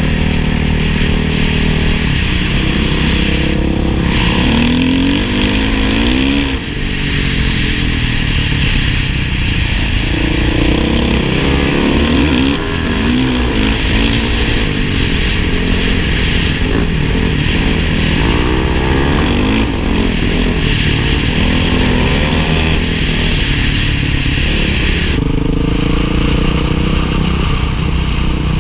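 Honda motorcycle engines running and being revved, the pitch rising and falling again and again as the throttle is opened and closed.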